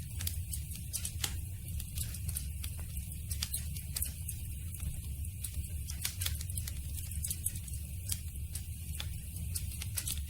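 Campfire burning wood and crackling: irregular sharp pops and snaps, several a second, over a steady low rumble.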